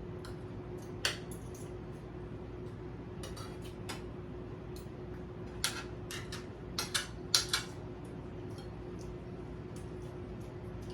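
Spoon and fork clinking and scraping against a plate during a meal: scattered sharp clinks, coming thickest in a quick run a little past the middle.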